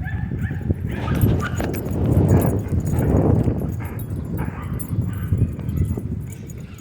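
A dog making noises, with a few short high-pitched whines near the start and rough pulsing sounds after, over wind rumbling on the microphone.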